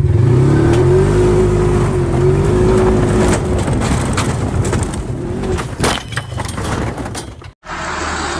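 A vehicle engine running with its pitch wavering up and down, followed by a cluster of sharp knocks and clatter about six seconds in.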